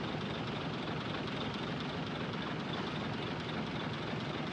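Heavy diesel earthmoving machinery running steadily, giving an even engine-and-machine noise with no distinct knocks or changes.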